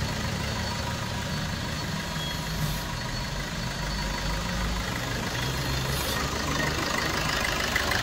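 Suzuki Swift 1.3 diesel engine, a four-cylinder common-rail turbodiesel, idling steadily just after a timing chain replacement. The mechanic takes the sound as sweet and smooth, a sign that the job is done right.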